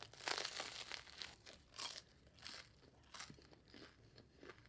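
A crusty baguette bánh mì sandwich bitten into with a loud crunch, then chewed with a series of crunches about every half second.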